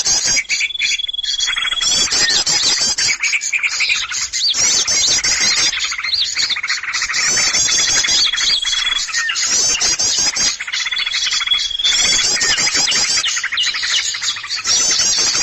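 Dense, noisy chorus of many small songbirds chirping and twittering rapidly, with a long, steady whistled note that comes back several times. A bird-lure recording of an agitated flock of small birds, used to draw in small wild birds.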